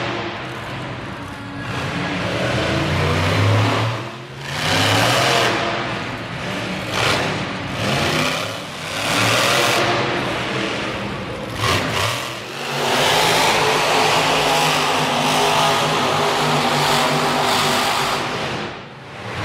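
Monster truck engine revving hard in repeated surges, the pitch climbing and dropping with brief lulls between bursts of throttle.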